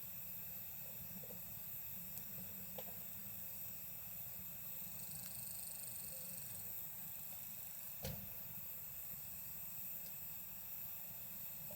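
Wood campfire crackling faintly, with a few sparse pops, the loudest about eight seconds in, over a steady hiss. Insects sing steadily and high in the background, with a brief higher trill about halfway through.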